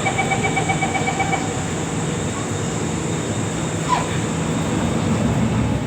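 Steady rumble and hum inside an Alstom Movia R151 metro train. A rapid, two-pitched beeping sounds for about a second and a half at the start.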